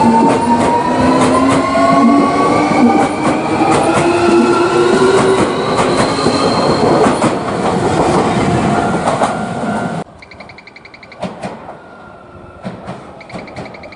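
Electric train pulling away: its traction motors give a whine that climbs steadily in pitch as it speeds up, over the rumble and clatter of the wheels on the rails. About ten seconds in the sound cuts off sharply, leaving a much quieter background with a few clicks and a pulsing electronic beep.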